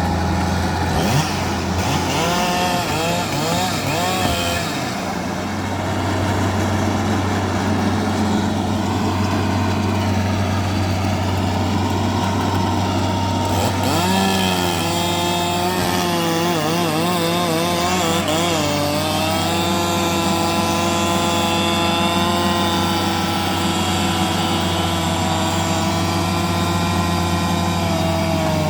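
Bulldozer's diesel engine running under load, its pitch wavering and shifting: it rises about halfway through, then settles to a steady higher note.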